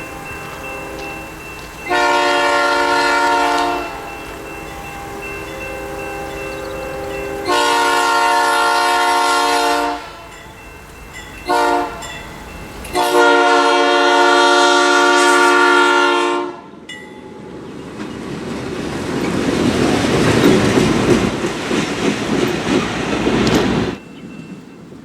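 Diesel locomotive air horn sounding the grade-crossing signal, long, long, short, long, as the train approaches. The train then passes close by with a swelling rumble of engines and wheels on the rails, which cuts off suddenly near the end.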